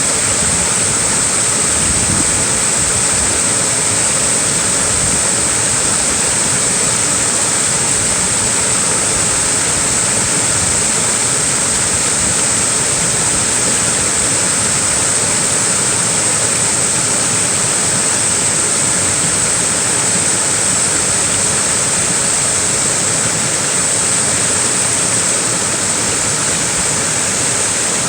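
Small waterfall rushing steadily, an even hiss of falling water with no breaks.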